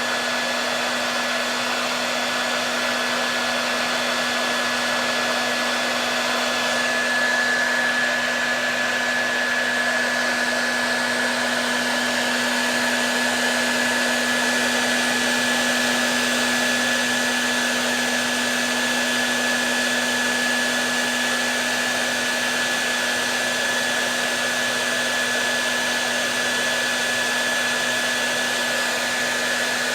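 Hair dryer running steadily: an even rush of air with a low motor hum and a high whine, which grows a little stronger about seven seconds in.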